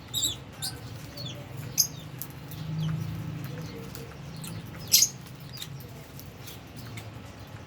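Aviary of Fisher's and albino lovebirds chirping: short, sharp high calls scattered irregularly, the loudest pair about five seconds in, over a steady low hum.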